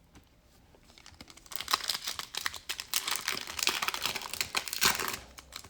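Plastic wrapper of a basketball card pack crinkling as it is torn open and pulled away, a rapid run of crackles starting about a second and a half in.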